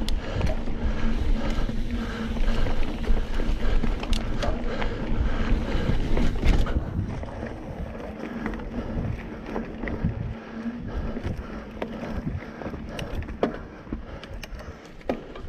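Mountain bike rolling fast over a dirt singletrack: rumble of tyres and wind with frequent rattles and knocks from the bike, easing somewhat after about seven seconds.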